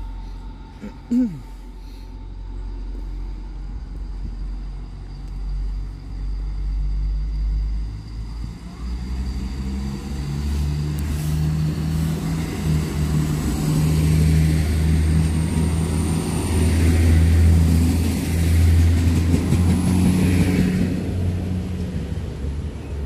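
An NEB diesel multiple unit approaching and passing by at close range, its diesel engines humming and growing loudest as it goes past in the second half, with wheel and rail noise. A brief sharp sound about a second in.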